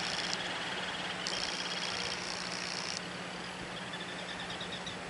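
Seabirds calling in rapid chattering trills, in several separate bouts, over a steady background hiss.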